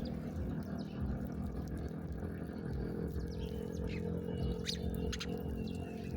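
A few short, high bird chirps in the second half, over a steady low hum.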